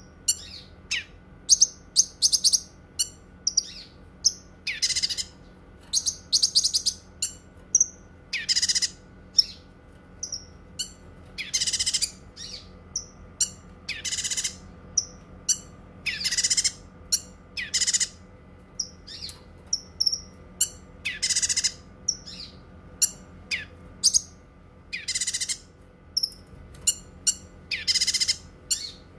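Cucak kinoi songbird singing, repeating short loud song phrases every one to two seconds with brief chirps between them, over a faint steady hum.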